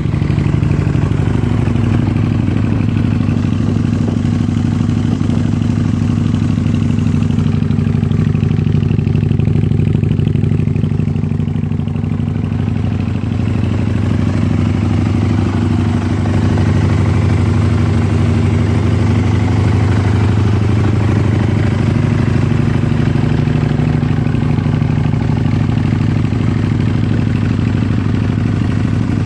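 Aprilia RSV 1000's 60-degree V-twin engine idling steadily through a Leo Vince aftermarket exhaust, with a deep, even exhaust note.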